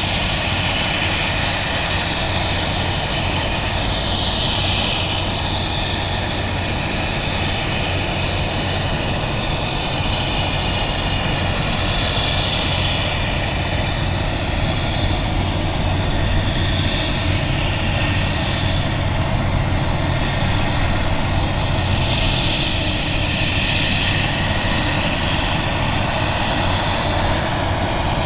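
Jet airliner engines running: a steady low hum under a hiss that swells and eases a few times.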